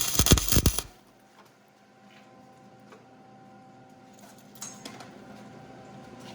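Welding arc crackling and spitting on a broken exhaust manifold stud, cutting off a little under a second in, followed by a faint metallic clink near the end.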